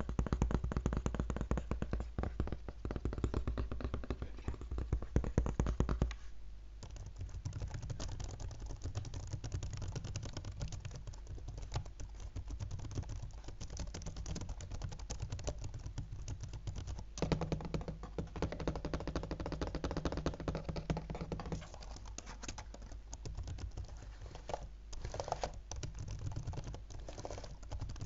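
Fingers tapping fast on a laptop, a dense run of quick clicks. It is louder and heavier for about the first six seconds, then goes on more softly.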